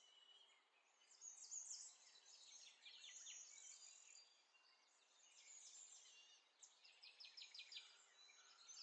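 Faint birdsong: many quick, high chirps and short trills from small birds, coming in clusters.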